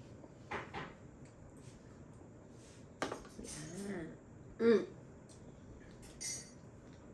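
Tableware clinking and tapping: a few short knocks and a sharp click. Between them come two brief wordless voice sounds, the second being the loudest sound here.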